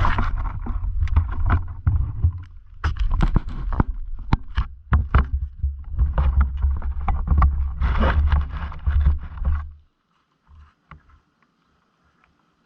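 Low buffeting rumble with many sharp knocks and clicks, as picked up by the microphone of a GoPro Hero 8 Black riding on a cinewhoop FPV drone in flight. It cuts off about ten seconds in.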